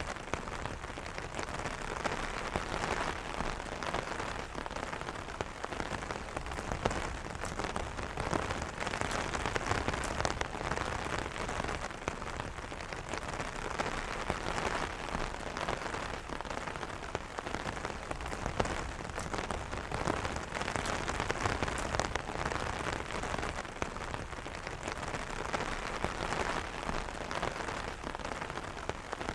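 Steady rain pattering on an umbrella's fabric canopy, a dense even patter of many small drop impacts with no thunder.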